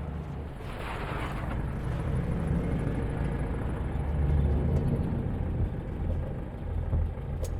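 Low, steady rumble of a motor vehicle running, with a brief rushing swell about a second in and a few light clicks near the end.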